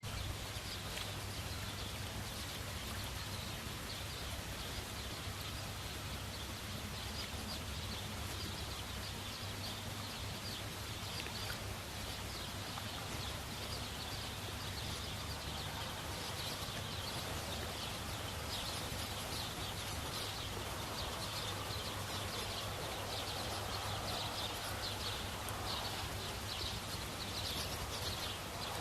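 Outdoor ambience: a continuous chorus of fine, high chirping over a steady low hum.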